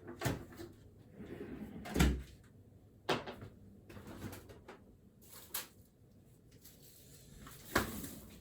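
Scattered knocks and clicks of objects being handled in a small room, the loudest a thud about two seconds in and another sharp knock near the end.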